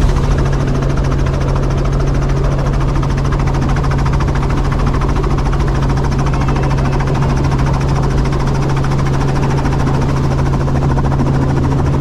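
Helicopter engine and rotor running steadily in flight, heard from inside the cabin: a loud, constant low hum with a fast, even rotor chop.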